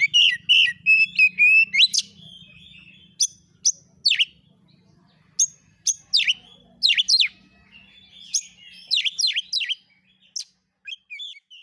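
Oriental magpie-robin (kacer) singing in an agitated, emotional style: a fast run of warbled notes, then sharp, separate downward-sweeping whistles and calls, some in quick pairs.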